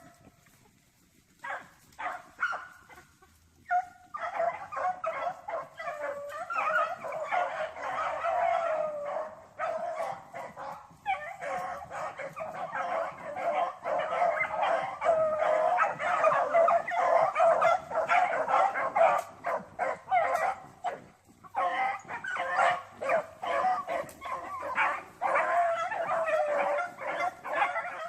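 Pack of rabbit-hunting hounds baying and yipping in full cry on a rabbit chase. Many voices overlap into a nearly continuous chorus that swells in about four seconds in.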